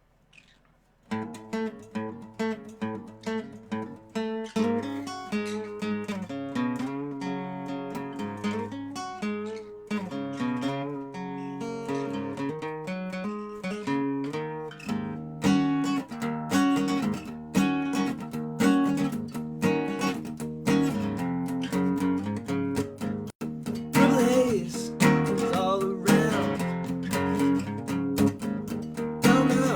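Dobro (resonator guitar) starting to play about a second in: separate picked notes at first, then fuller picked and strummed chords in a steady rhythm.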